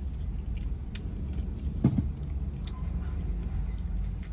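Close-up mouth sounds of someone chewing crispy chicken wings and licking her fingers, with a few short clicks and crunches, the loudest about two seconds in. Underneath is a steady low rumble of wind buffeting the microphone.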